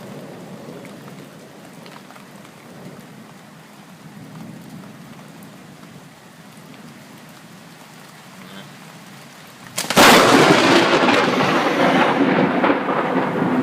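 Steady rain hiss, then about ten seconds in a sudden, very loud crack of thunder from a close lightning strike that rolls on as a heavy rumble.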